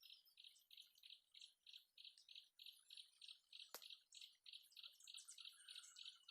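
Faint forest wildlife: a steady, even chirping at about four pulses a second, with scattered higher chirps over it. One sharp click sounds a little past the middle.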